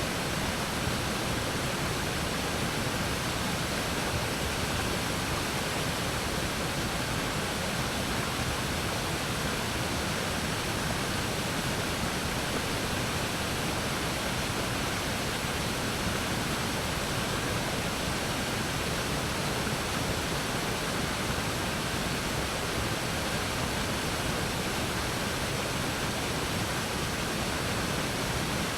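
River waterfall pouring: a steady, unbroken rush of falling water.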